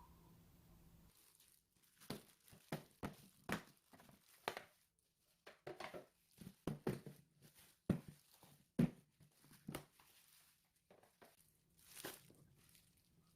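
Kitchen handling sounds: irregular light clicks and knocks with some rustling, about a dozen in ten seconds.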